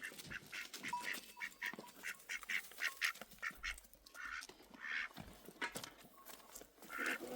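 Bird calls: a rapid, uneven series of short, repeated calls.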